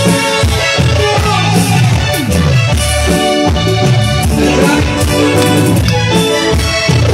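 Live band playing Latin music, steady and loud, with a driving beat.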